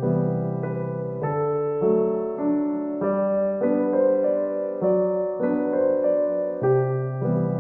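Soft background piano music, notes changing about every half second in a gentle, even rhythm.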